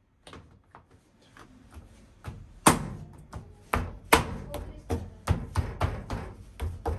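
A knife chopping on a cutting board, mincing food: a few light taps at first, then louder, uneven chops about two or three a second.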